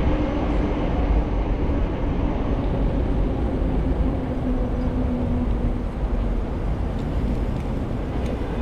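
Traffic noise heard from a moving bicycle: a steady low rumble, with a vehicle's drone that fades away about five or six seconds in as it passes.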